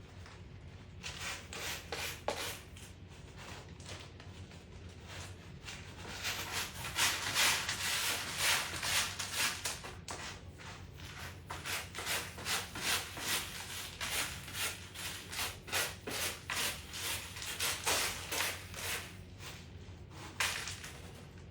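A cat scratching and raking litter in its litter box to cover its waste: a long run of quick scraping strokes, about two a second, loudest some seven seconds in.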